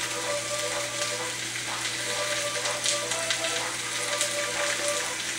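Chicken pieces sizzling and crackling in hot oil in a stir-fry pan, a steady hiss with a few light clicks as it is stirred.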